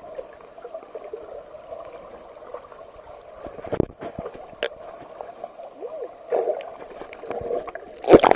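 Muffled underwater sound of a waterfall pool, heard with the camera dipped beneath the surface: a dull water rush with gurgling bubbles and scattered clicks, and a louder splash near the end.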